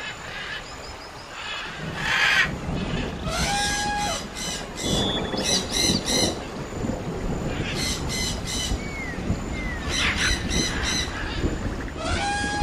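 Bird calls: repeated harsh squawks mixed with short clear whistled notes and a few sliding calls, over a low rumble.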